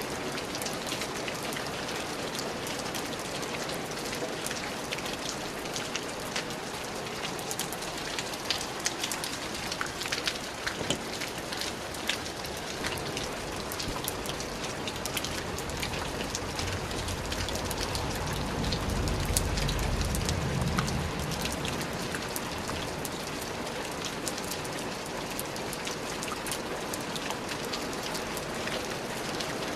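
Steady rain falling, an even hiss with the ticks of single drops landing close by. A low rumble swells and fades about two-thirds of the way through.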